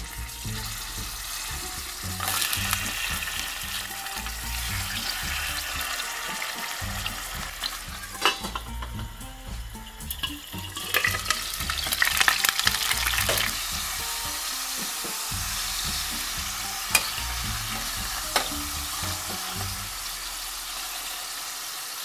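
Rabbit legs frying in sunflower oil in a stainless steel pot: steady sizzling and spitting. The sizzle dulls for a couple of seconds while a metal lid is on, then a spell of loud crackling follows, and a few sharp metal clicks come from the lid and tongs.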